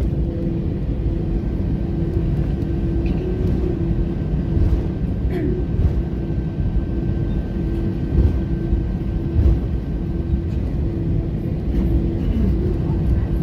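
Cabin noise of an Airbus A320 taxiing: a steady low rumble with a constant hum running through it, and a few faint clicks.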